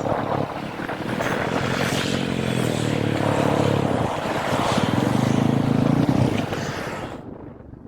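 Royal Enfield Classic 350's single-cylinder engine running while the bike is ridden, its note breaking briefly about half a second in and again around four seconds in. The engine sound drops away sharply near the end.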